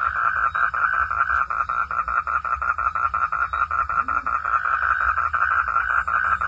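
Frogs calling in a steady, rapid pulsed trill of about nine pulses a second.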